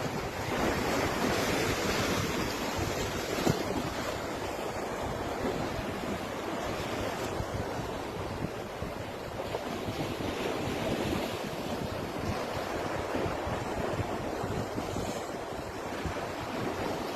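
Waves breaking and washing onto a beach, rising and falling in slow swells, with wind rumbling on the microphone.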